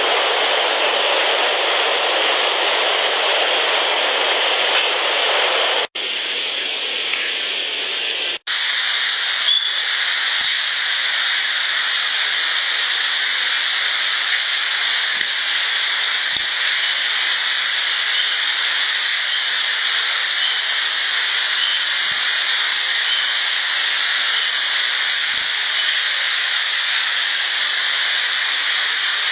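Heavily amplified field recording from a recorder left in the woods, dominated by a steady loud hiss that cuts out twice near the start. Over it come a few faint, sharp clacks spaced seconds apart, which the recordist takes for rocks being clacked together.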